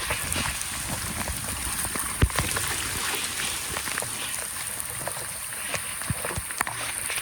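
Steady rush of water, with a sharp knock about two seconds in and a few fainter clicks and taps.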